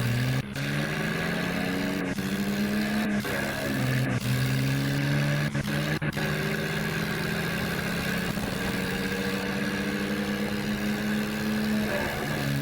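Tractor diesel engine working under load, pulling a trolley. Its pitch rises several times in the first few seconds as it revs up, then holds fairly steady.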